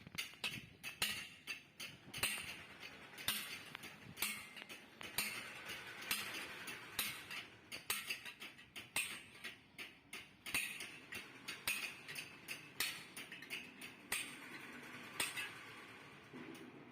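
Irregular metallic taps and clinks, several a second, with a light scraping hiss between them, from handwork on motorcycle exhaust muffler parts.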